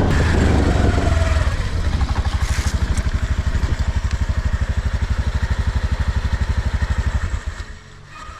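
Motorbike engine slowing to an idle with a fast, even putter, then stopping near the end.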